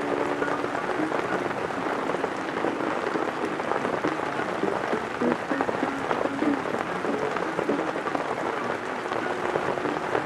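Steady rain falling, loud on the microphone, with a jazz recording playing faintly underneath through a small portable speaker.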